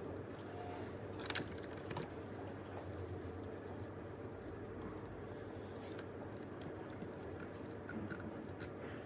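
Typing on a computer keyboard: irregular key clicks, with one louder clack about a second and a half in, over a steady low hum.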